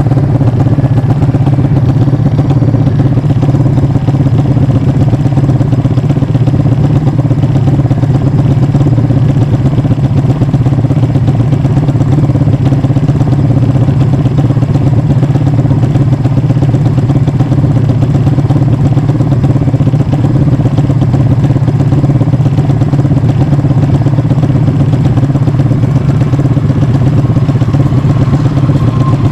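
Yamaha MX King motorcycle's single-cylinder four-stroke engine, enlarged to 300cc, idling steadily and loudly with no revving.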